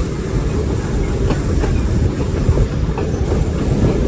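Passenger train cars running on the rails, heard from aboard: a steady, loud low rumble with a few light clacks of the wheels.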